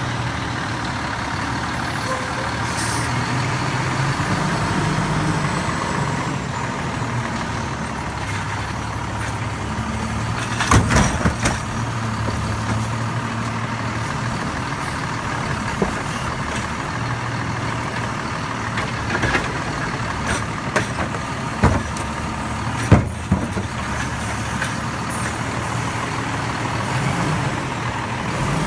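Garbage truck engine running steadily, with a few sharp clanks or knocks, the loudest about a third of the way through and another later on.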